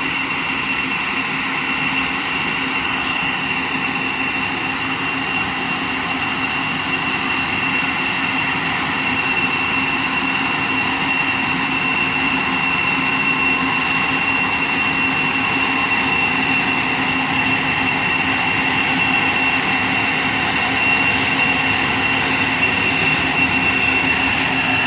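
Motorised insecticide sprayer for oil palm trees running steadily: an even rushing hiss with a constant high whine, growing slightly louder about nine seconds in.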